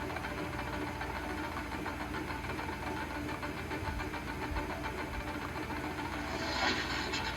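Vehicle engine idling steadily with an even, regular pulse, plus a brief hiss about six and a half seconds in.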